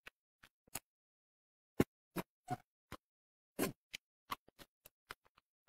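Close-miked eating sounds of a mouthful of braised fish: a string of short, wet chewing clicks and lip smacks with silence between them. The loudest comes a little under two seconds in, and a longer smack follows past the three-and-a-half-second mark.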